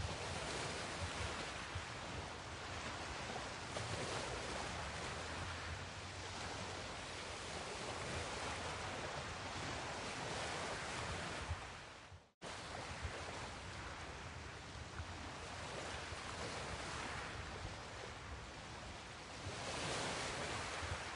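Small waves washing along the shore, a steady hiss that swells and eases every few seconds, with some wind rumbling on the microphone. The sound drops out to silence for an instant near the middle.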